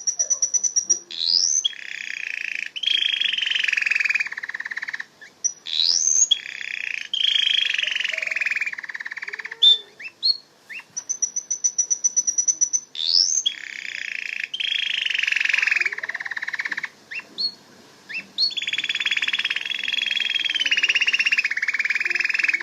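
Domestic canary singing: phrases of fast high trills, rising whistled notes and long rolling buzzy tours, broken by short pauses.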